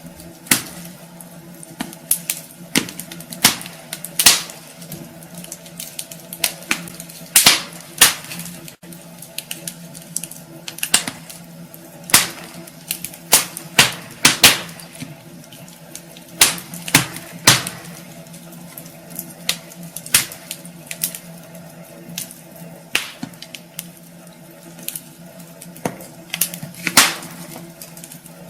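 Wood fire burning in a fireplace: burning logs crackle and pop at irregular moments, some pops much louder than others, over a low steady hiss.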